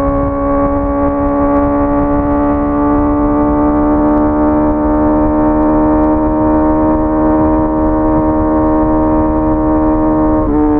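Honda CBR650R's inline-four engine pulling steadily at high revs, its pitch creeping slowly upward over a low rushing noise. The note breaks briefly near the end.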